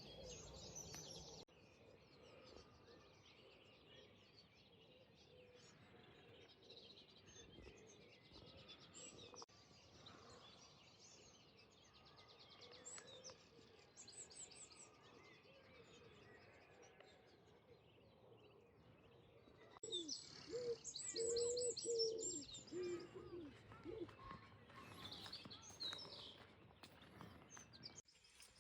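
Faint morning birdsong: scattered chirps and quick high trills over a low background hush, with a louder, busier burst of calls from about two-thirds of the way through.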